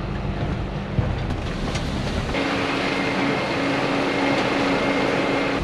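Four-wheel-drive's engine and road noise heard inside the cabin, a steady low hum. A little over two seconds in the hum gives way to a steady hiss with a faint held whine.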